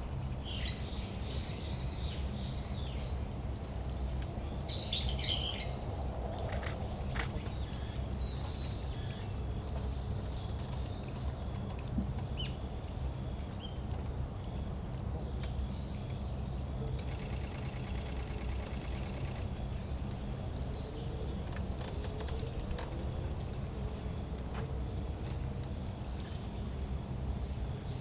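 An insect singing one unbroken high-pitched trill, with short thin high calls of small birds scattered over it, a few sharp clicks, and a steady low background rumble.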